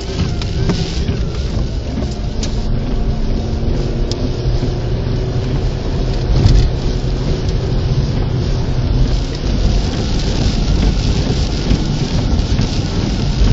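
Heavy rain and wind noise around a vehicle in a thunderstorm: a continuous rushing hiss over a strong, fluctuating low rumble.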